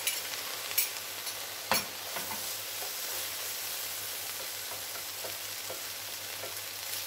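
Migas of bread, sausage and green pepper frying in oil in a pot, sizzling steadily while a wooden spoon stirs them. A few sharp knocks against the pot in the first two seconds.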